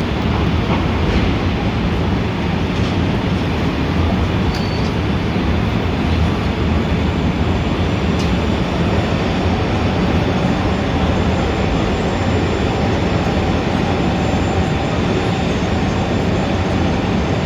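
Steady, dense city traffic rumble, heaviest in the low end, with a faint brief high squeal about four and a half seconds in.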